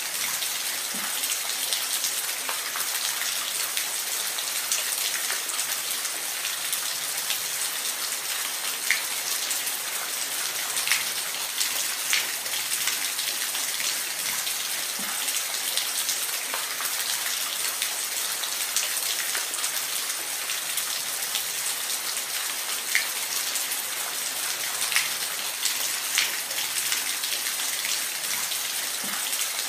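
Steady hiss of falling water, weighted toward the high end, with scattered small sharp ticks like drops landing.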